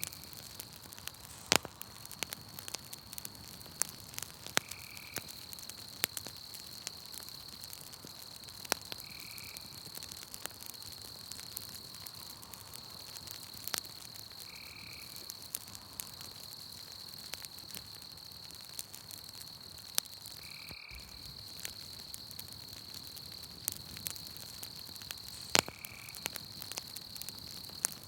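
Campfire crackling, with scattered sharp pops, two of them louder, over a steady high chirring of night insects. A short call repeats every four to six seconds.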